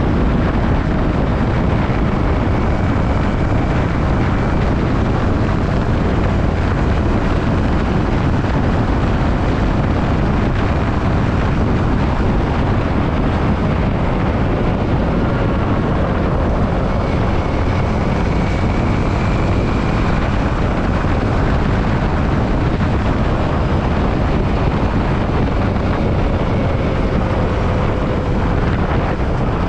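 Steady rush of wind noise on the microphone while riding a Yamaha WR155R motorcycle, with its single-cylinder engine faintly audible underneath, its tone shifting slowly in pitch.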